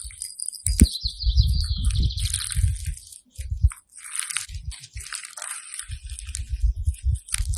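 Hands squeezing and pressing crunchy slime: irregular crackles and squishes over soft, low thumps.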